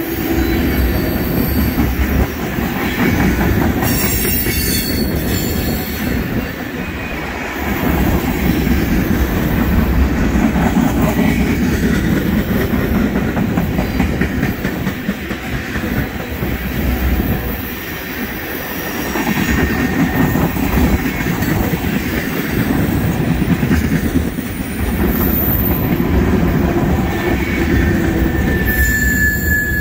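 Railroad tank cars of a freight oil train rolling past, a steady rumble of steel wheels on rail with clickety-clack over the joints. A high wheel squeal rises near the end.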